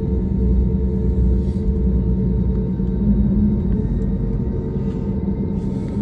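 Steady low drone of an airliner in flight, heard inside the passenger cabin, with a few faint constant hums over the rumble.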